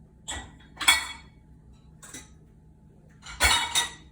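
Bowls being set into a dishwasher rack: a few separate clinks and knocks, the loudest about a second in and another pair around three and a half seconds.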